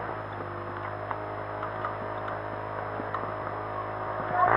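Off-road motorcycle engine idling steadily, with a few faint clicks over it.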